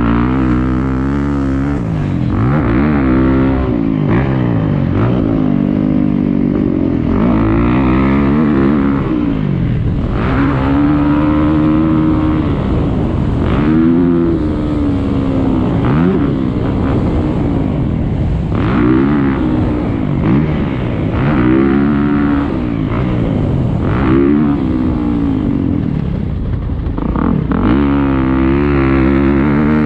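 Motocross bike engine revving hard and easing off again and again, its pitch climbing and dropping every second or two, as the bike accelerates, shifts and brakes through a lap.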